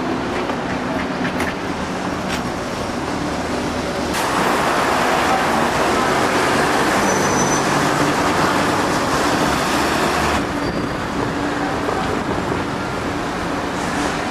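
Road traffic on a city street: vehicles running past with engine hum. A louder stretch of traffic noise starts about four seconds in and cuts off abruptly about ten seconds in.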